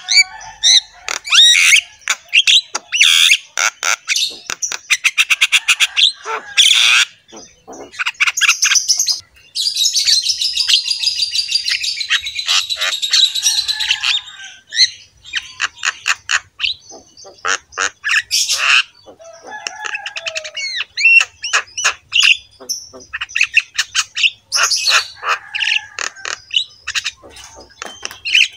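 Birds squawking and chirping close by, in a dense run of short calls and trills with a stretch of rapid continuous chatter about ten seconds in.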